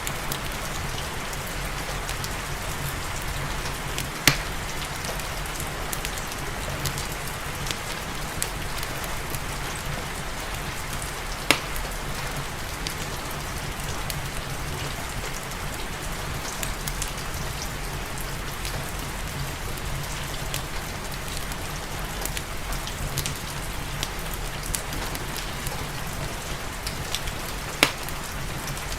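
Steady rain with the scattered sharp pops of a crackling wood fire, three of them loud: about four seconds in, near the middle and near the end.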